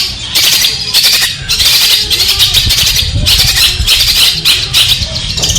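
Long-tailed shrike (cendet) giving harsh, scratchy chattering calls in rapid repeated bursts that run almost without a break near the end.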